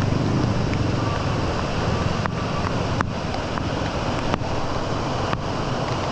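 Steady rush of heavy rain and running water, with a few sharp ticks about two, three, four and a half and five and a half seconds in.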